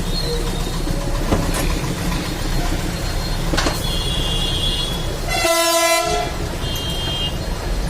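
Steady low rumble of passing traffic with one vehicle horn blast, under a second long, about five and a half seconds in.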